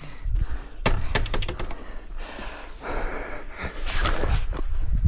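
Irregular knocks, clicks and scuffs with patchy low rumbling, with no engine running.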